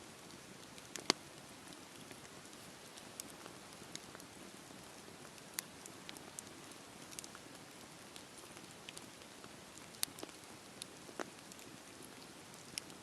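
Campfire burning: a steady soft hiss with irregular sharp pops and crackles from the wood, the loudest about a second in and about ten seconds in.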